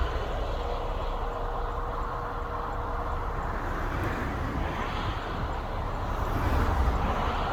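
Freight train running past: a steady low rumble with rolling rail noise.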